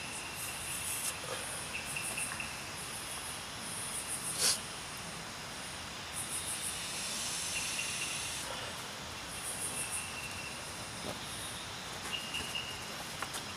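Crickets and other insects calling in pulsing trains over a steady hiss, with short high chirps now and then. A few clicks and rustles of a fabric bag being handled, the loudest a sharp click about four and a half seconds in.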